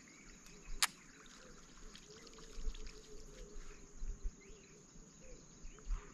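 Faint open-air ambience on the water: a steady high insect drone with small trickling water sounds. A sharp click comes just under a second in, with a few soft low thumps.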